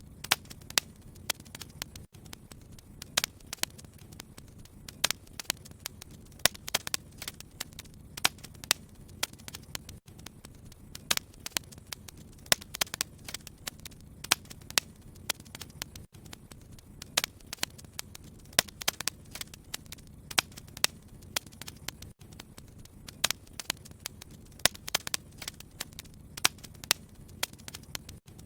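Wood fire crackling in a fireplace: irregular sharp pops and snaps, several a second at times, over a low steady rumble of the burning fire.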